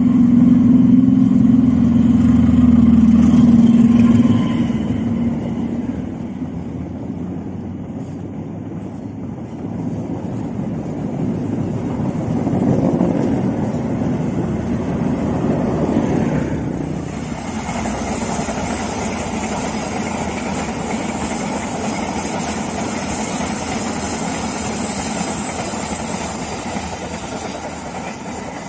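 CC 206 diesel-electric locomotive passing close, its engine drone loudest for the first four seconds, followed by the rumble of the passenger coaches rolling over the rails. About 17 s in the sound changes to a steadier, more distant train rumble with a hiss on top.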